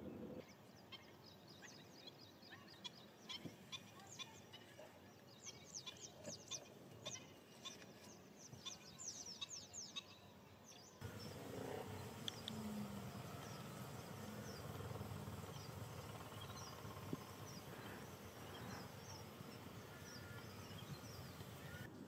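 Wild birds calling, faint: many short, high chirps sliding downward in quick succession. About halfway the background changes abruptly to a fuller, even hiss with scattered fainter calls.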